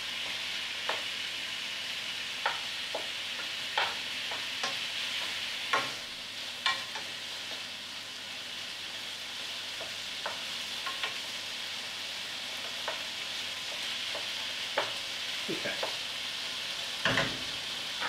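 Chicken pieces and peppers sizzling steadily as they fry in a skillet. Scattered clicks and scrapes come from a utensil stirring them against the pan, with a heavier knock near the end.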